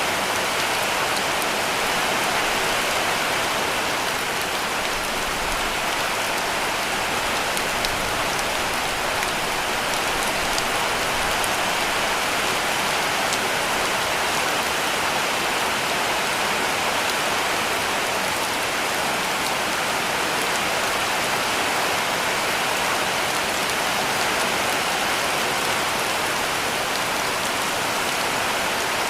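Heavy rain falling steadily on a cabin roof: a dense, even hiss of drops with faint individual taps, unchanging throughout.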